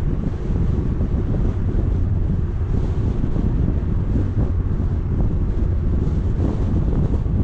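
Wind buffeting an action-camera microphone: a steady, dense low rumble with no distinct events.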